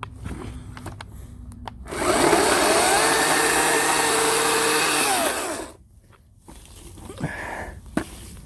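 Ryobi 40-volt battery chainsaw's electric motor spinning up and running the chain with no load for about three seconds, then winding down, with a rising whine at the start and a falling one at the stop. Light clicks and rustling of handling come before and after.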